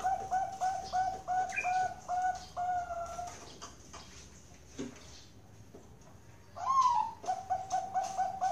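Zebra dove (Bangkok-strain perkutut) cooing: a fast run of short repeated coo notes, about four a second, that slows and stops about three seconds in. After a pause, a rising call near the end starts a new fast run.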